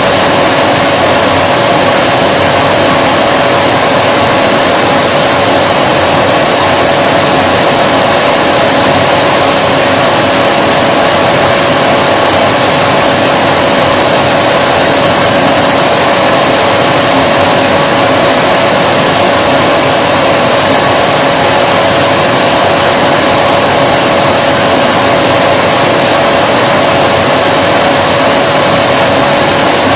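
Vacuum cleaner running continuously: an unchanging rush of air with a steady motor tone.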